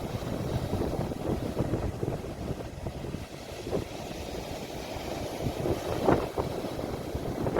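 Ocean waves washing on the shore, with wind buffeting the phone's microphone into a low, steady rumble.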